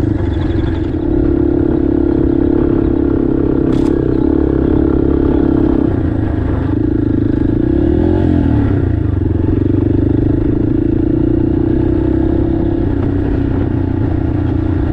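Single-cylinder dual-sport motorcycle engine running steadily while riding through sand dunes, with a brief sharp click about four seconds in.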